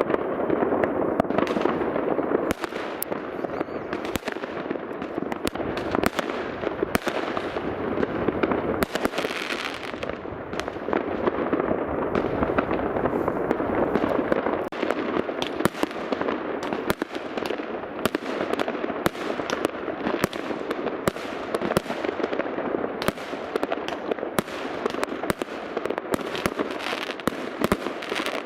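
Many fireworks going off at once: a continuous dense crackle with frequent sharp bangs of rocket and firework bursts, overlapping without pause.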